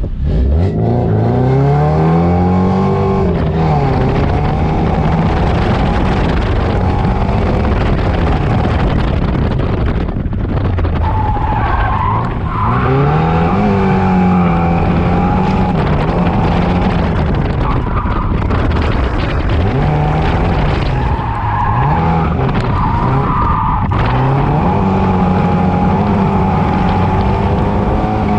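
Nissan 240SX S14's KA24DE four-cylinder engine launching hard, then revving up and down again and again as the car is driven through an autocross course. Its tires squeal as the car slides through the corners.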